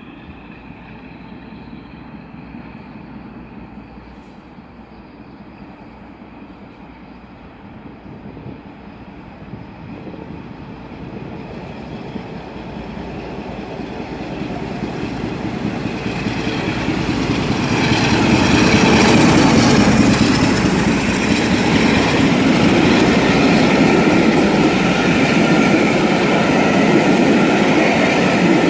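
Class 47 and Class 37 diesel locomotives hauling a train, approaching and passing. The noise of the engines and the rails grows steadily louder, peaks about two-thirds of the way in, and stays loud as the train runs by.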